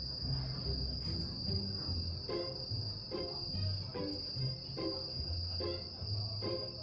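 Crickets trilling in one steady, unbroken high note, over background music of repeated pitched notes with a low bass.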